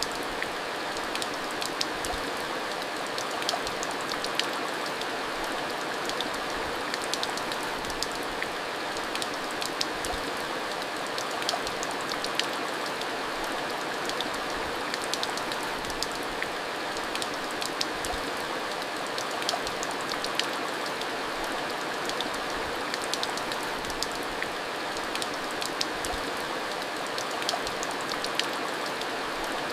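Steady rain falling, with a continuous hiss and many small drop ticks spattering throughout.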